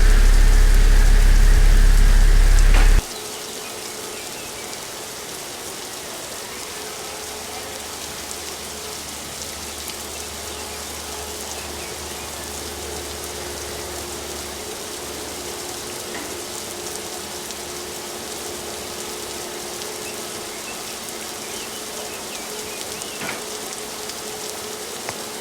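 Car wash water spray hissing steadily on the car, sounding like rain. A loud low rumble runs underneath at first and cuts off abruptly about three seconds in.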